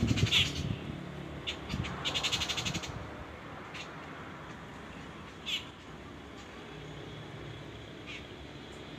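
Birds calling: short, sharp high calls every second or two, with a rapid harsh rattling call about two seconds in, over a low steady background rumble.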